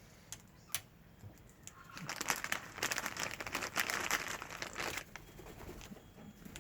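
A packet of nuts crinkling and rustling as it is handled, densest from about two seconds in to about five seconds in, after a couple of sharp clicks.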